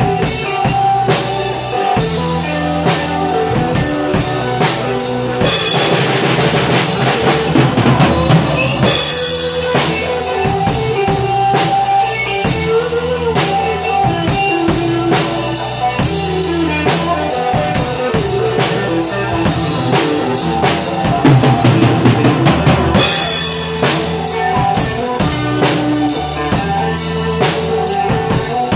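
Drum kit played to a pop-rock backing track, with bass drum and snare keeping a steady beat. Cymbals ring loudly from about five seconds in to about nine, and again from about twenty-three seconds in.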